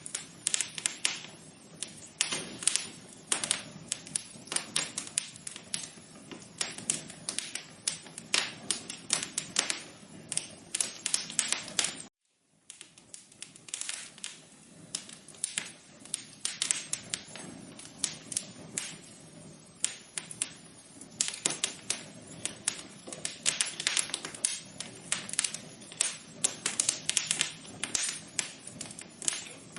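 Wood fire crackling in a fireplace: dense, irregular pops and snaps. The sound cuts out for a moment about twelve seconds in, then resumes.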